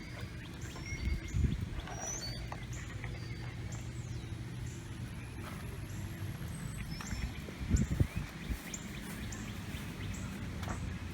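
A bird chirping over and over in short high notes, roughly one or two a second, with a couple of low thumps and knocks, the loudest about one and a half and eight seconds in.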